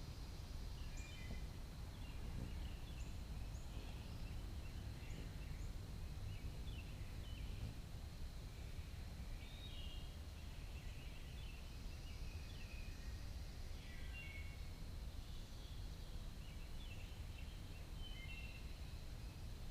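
Backyard ambience: short bird chirps scattered throughout, over a steady high insect drone and a low outdoor rumble.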